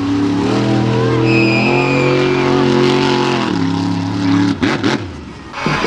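Monster truck's big-block V8 engine under throttle, revving hard and holding, then stepping down in pitch about three and a half seconds in. It falls away abruptly near the end.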